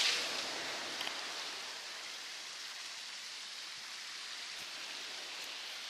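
Heavy rain pouring down in a steady hiss, easing slightly over the first two seconds and then holding even.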